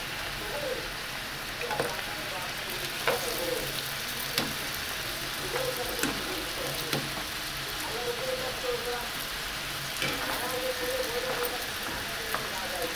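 Stuffed flour pastries frying in hot oil in a pan, a steady sizzle, with sharp clicks now and then as a wire skimmer touches the pan and turns them.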